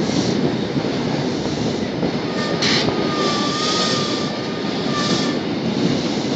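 Running noise of a passenger train crossing a steel bridge at low speed, heard from inside the carriage: a steady rumble and rattle. A faint thin high whine comes in about two seconds in and fades about three seconds later.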